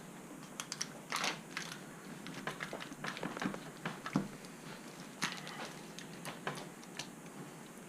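A spatula clicking and scraping against a baking pan in quick, irregular taps as a slice of meatloaf is cut and pried out.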